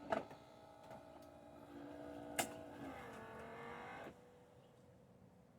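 Saeco Pico Baristo's brew unit drive motor running with a faint whir of steady tones and a couple of clicks, bringing the brew group into position after grinding. It stops abruptly about four seconds in.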